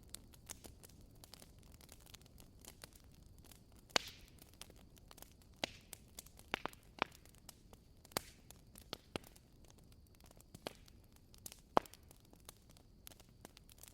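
Wood fire burning, faintly crackling with irregular sharp pops from the firewood, a few louder snaps scattered through, over a low steady hiss.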